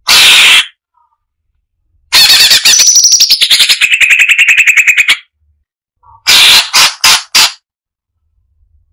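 Cucak cungkok singing loud, fast, chattering phrases of rapidly repeated high notes, in three bursts separated by silence. The longest, in the middle, slides down in pitch partway through.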